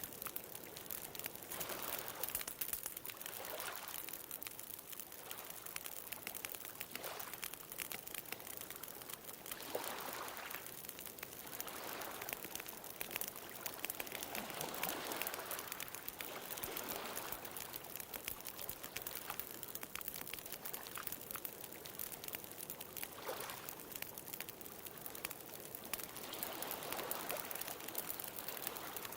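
Bonfire crackling with dense small pops, over ocean waves washing in as a soft rushing that swells and fades every few seconds.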